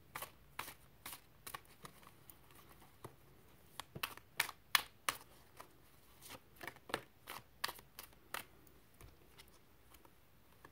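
A deck of cards being shuffled by hand: a string of short, crisp card slaps and flicks, busiest about four to five seconds in and again around seven to eight seconds, thinning out near the end.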